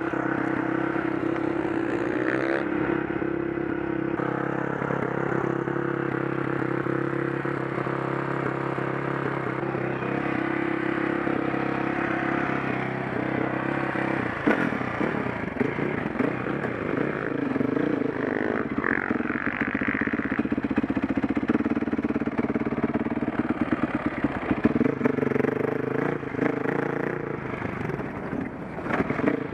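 KTM 525 SX single-cylinder four-stroke motocross engine running under load as the bike is ridden, its pitch rising and falling with the throttle. Sharp clattering knocks come in the second half.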